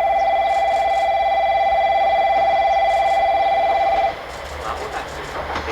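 Electronic railway platform bell ringing: one steady, high tone with a rapid trill. It rings for about four seconds and cuts off sharply.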